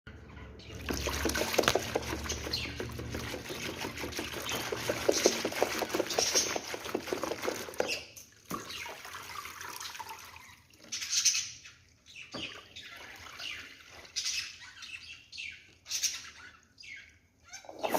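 Spin mop and bucket in use: water sloshing and dripping with a fast run of clicks for about the first eight seconds, then scattered short squeaks and splashes.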